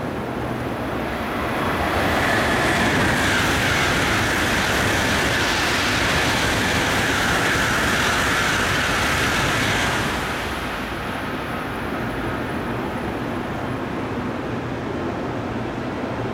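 Shinkansen 700-series train passing through the station at speed without stopping. A rush of air and wheel-on-rail noise swells about a second and a half in and stays loud and steady for about eight seconds as the cars go by. It then falls away to a lower background hum.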